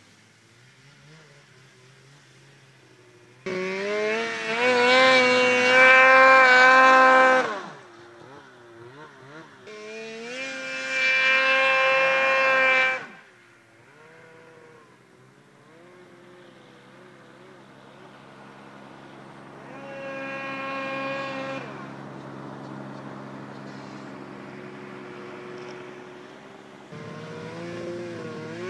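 2003 Polaris RMK 700 snowmobile's two-stroke engine, running with no muffler on an SLP exhaust, idling and revved hard three times: two long rising blips, the second about 10 s in, and a smaller one about 20 s in, settling back to idle between.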